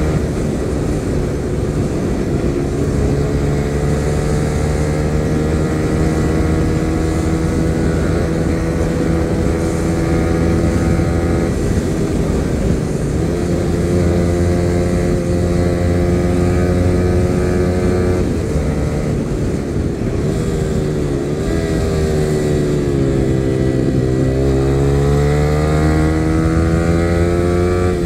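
Yamaha R15 V3's 155 cc single-cylinder engine pulling at around 90–105 km/h, heard from on the bike with wind rush. Its pitch holds fairly steady, falls off for a few seconds past the middle, then climbs again as the bike accelerates near the end.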